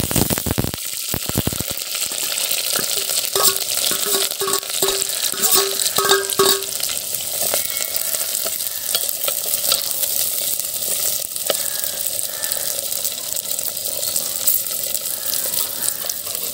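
Sliced onions, garlic, curry leaves and green chillies sizzling in hot oil in a clay pot, stirred with a metal ladle. About three seconds in comes a run of short pitched scraping notes, about two a second, lasting a few seconds.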